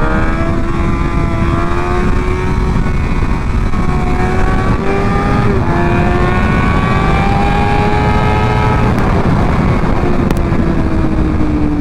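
Motorcycle engine pulling under way, its pitch climbing slowly, dropping at an upshift about halfway through, then climbing again and easing off near the end, under heavy wind rush.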